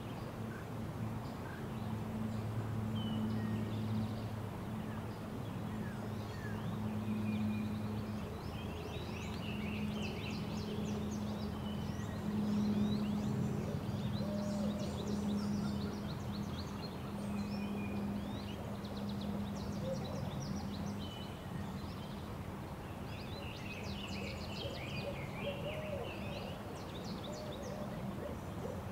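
Birds chirping and calling in clusters of short, high calls over a steady low hum. The lowest part of the hum drops away about eight seconds in.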